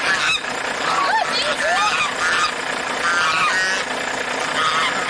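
Farm poultry flock calling, many short squawks and honks overlapping one another.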